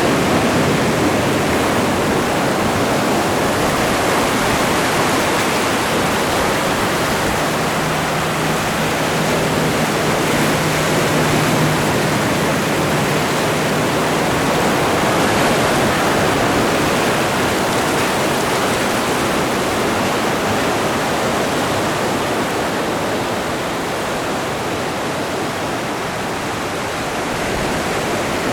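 Atlantic Ocean surf washing on the shore in a continuous, steady rush of waves that swells and eases gently, dipping a little near the end.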